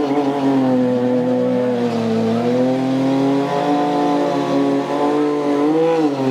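Superbike engine revved hard and held at high revs, its pitch wavering up and down, dipping about two seconds in, climbing again, and dropping near the end.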